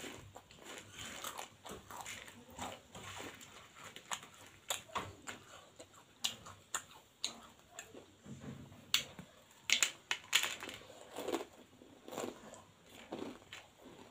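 Close-up chewing and crunching of bhujia, a crisp fried gram-flour noodle snack, heard as irregular crackly crunches and sharp clicks.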